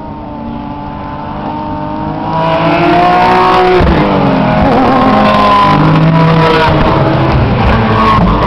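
Several GT race cars passing one after another, their engines loud and overlapping. The noise builds over the first couple of seconds, and the engine notes drop in pitch as cars go by, about four seconds in and again near the end.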